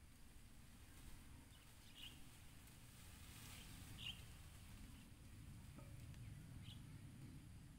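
Near silence in open air: a faint low rumble with a few short, high bird chirps scattered through it.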